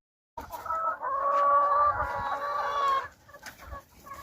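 Rooster crowing once, a long held call that ends about three seconds in, followed by softer chicken clucking.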